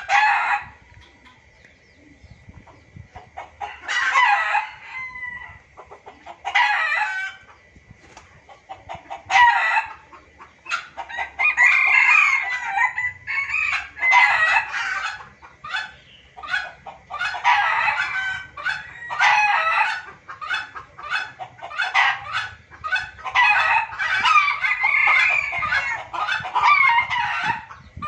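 Junglefowl lure recording: repeated crowing and clucking calls, sparse at first and coming in a busy, almost unbroken run from about ten seconds in. A faint steady high tone sounds under the first few calls.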